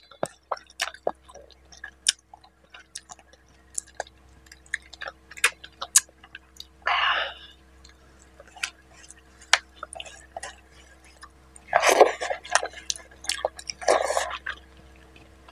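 Wet chewing and mouth clicks of a person eating fish head curry with rice, with three longer, louder mouth noises about seven, twelve and fourteen seconds in. A faint steady hum lies underneath.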